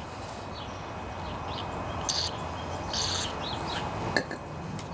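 Small birds chirping faintly over a steady low background. Two short hissing bursts come about two and three seconds in, and a sharp click near the end.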